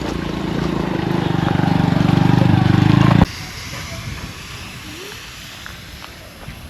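A motor engine running at a steady pitch, growing louder, then cut off abruptly about three seconds in. Quieter outdoor air and wind noise follow.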